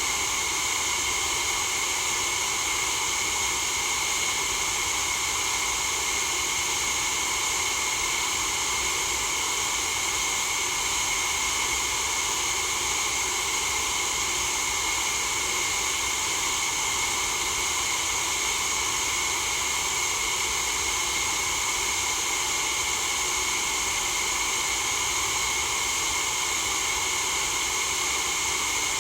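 Steady white noise for sleep: an even, unbroken hiss that is strongest in the upper range and does not change.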